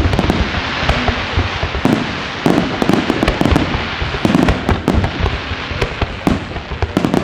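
Fireworks display: a rapid, irregular run of bangs and crackling bursts, several a second, over a dense rumble of shells.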